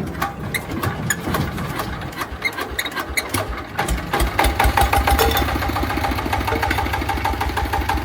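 Engine being started with a hand crank: clattering and clicking while it is cranked, then it catches about halfway through and settles into a steady, fast low chugging.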